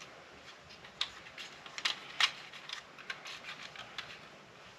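Light scattered clicks and taps of cutters and small metal parts being handled while taking apart a UPS battery backup unit, with two sharper clicks about one and two seconds in.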